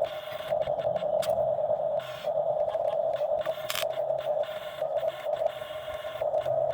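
Excavator working, a steady machine whine with scattered clicks and knocks.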